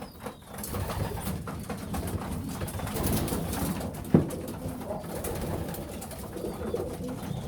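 Young racing pigeons cooing in a loft, with many short taps and clicks among them and one sharp knock about four seconds in.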